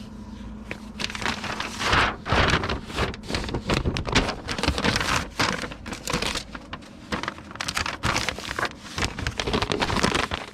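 Comic books in their plastic bags being handled and slid into a tie-back envelope: a continuous irregular rustling and crinkling of plastic and paper.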